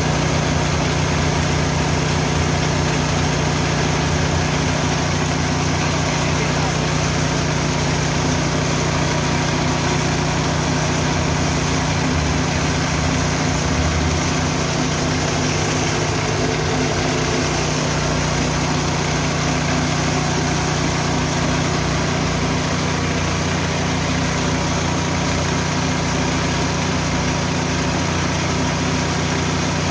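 Richi KD 350 mini rice and corn milling machine running steadily under engine power, a constant loud mechanical hum with a hissing whirr over it.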